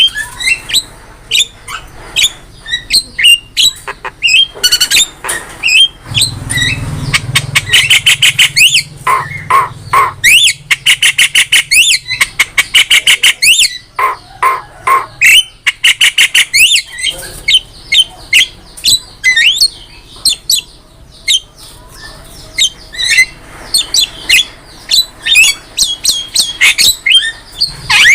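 Javan myna singing a fast, varied song of harsh squawks, chirps and whistled notes, broken in the middle by rapid rattling trills.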